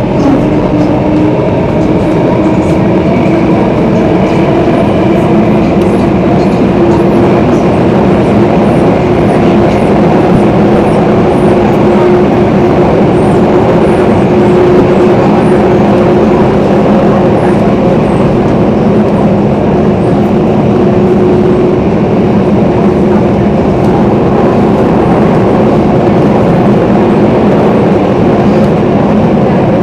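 Singapore MRT Circle Line train running underground, heard from inside the carriage: a steady rumble of wheels on rail with a motor whine that climbs slowly in pitch over the first fifteen seconds or so, then fades.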